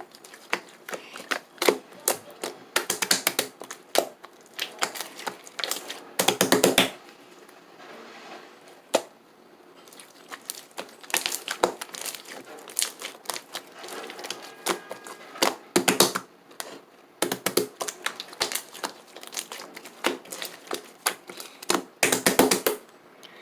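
Slime being worked by hand, giving dense runs of sharp clicking crackles in bursts, with a longer quiet gap about eight seconds in.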